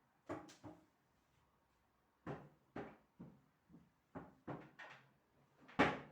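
A series of short knocks and clunks at an uneven pace, like household things being handled and set down during cleaning. The loudest knock comes near the end.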